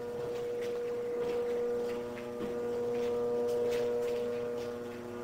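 Steady electrical hum, one strong even tone with fainter tones above and below it, with a few faint clicks.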